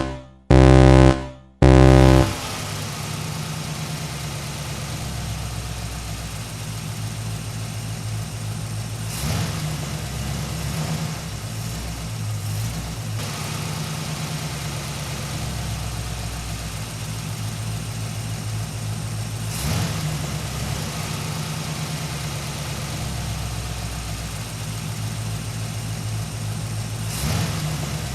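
A few short loud horn-like honks, then a vehicle engine running steadily at a low idle, with a few faint clicks.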